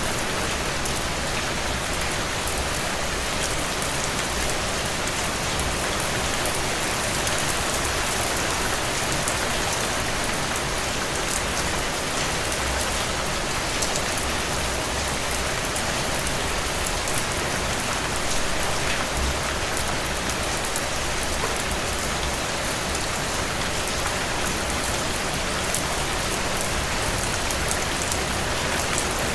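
Steady rain falling: an even hiss of rain with many fine drop ticks, keeping the same level throughout.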